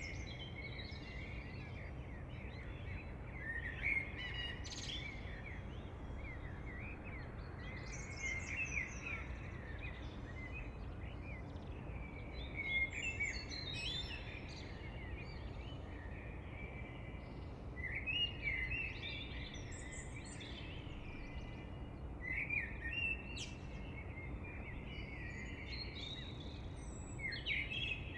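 Several songbirds singing, with repeated bursts of chirping, warbling phrases every few seconds, over a steady low background hiss.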